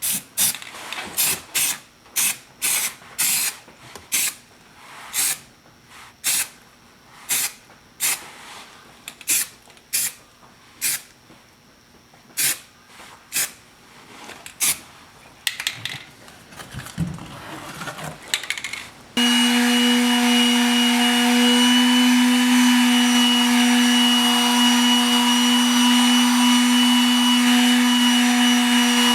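Gray high-build primer being sprayed onto a body repair, heard as a run of short, sharp hisses about one or two a second. About two-thirds of the way through this gives way suddenly to a loud, steady motor hum of constant pitch.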